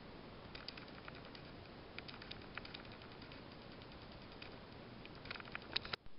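Faint scattered light clicks and ticks over a steady hiss. They bunch together shortly before the end and are followed by a brief drop-out.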